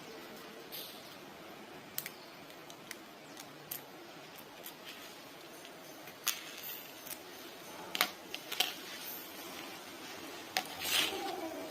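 Scattered small clicks and light taps of hands handling a soldering iron and small tools on a workbench, over a faint steady background.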